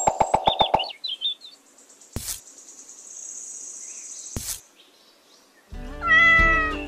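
A cat meowing once, about six seconds in, over background music that cuts out after the first second and comes back just before the meow. In the quiet stretch between, there are two sharp clicks about two seconds apart with a faint high tone between them.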